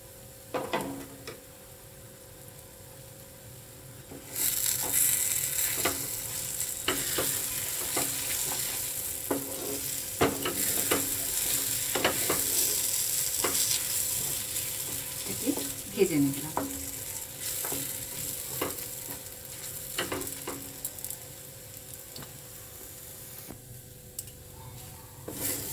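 Ground chana dal paste sizzling in hot oil in a frying pan while a wooden spatula scrapes and stirs it in repeated strokes. The sizzle starts about four seconds in and eases off near the end.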